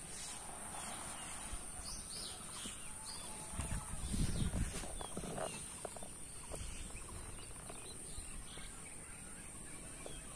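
Outdoor rural ambience: birds chirping now and then over a steady high hiss, with a few low rustles and thumps about four seconds in.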